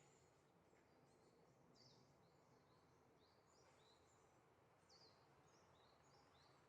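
Faint wild birds calling: many short, high chirps, each sliding down in pitch, one after another, over a faint background hiss.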